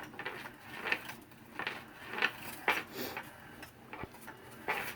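Battery-powered motorized cat toy's mechanism running, giving short irregular clicking and rattling bursts about every half second to second.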